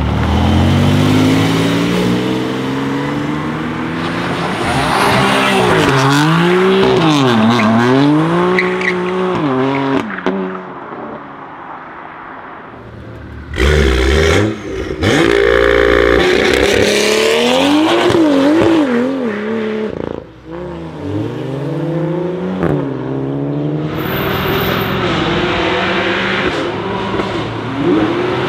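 Several high-performance car engines revving hard and accelerating away one after another, in separate clips cut together: a Porsche 911 Turbo first, a BMW M2 in the middle and a BMW M3 drifting near the end. Engine pitch climbs and drops with each rev and gear change.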